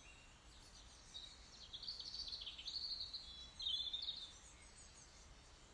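Faint birdsong: high chirping and twittering phrases that come in about a second in, are loudest through the middle, and fade near the end, over a faint low hum.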